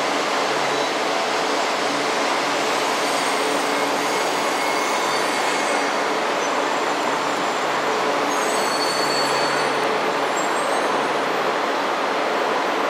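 E4 series Max double-decker Shinkansen rolling slowly into the platform and coming to a stop, a steady rumble of wheels and running gear with faint high-pitched brake squeal about two-thirds of the way through.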